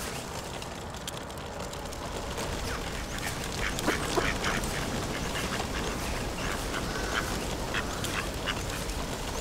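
Bird calls: a run of short, irregular calls beginning about three seconds in, loudest around four seconds, over a steady background hiss.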